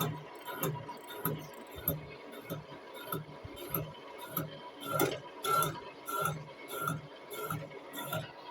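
Machine tool cutting a steel workpiece in a steady rhythm, one stroke with a sharp click about every 0.6 seconds, stripping metal off a rough weld-built surface and leaving elastic chips.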